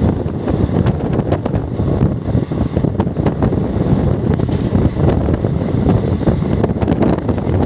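Express train running at speed, with heavy wind buffeting the microphone over the rumble and knocking of the coach.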